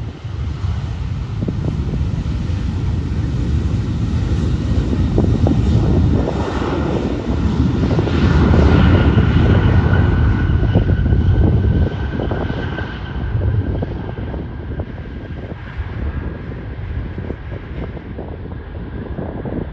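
Jet airliner passing by, its engine noise building to a peak about halfway through and then fading, with a high whine that drops slightly in pitch as it goes past.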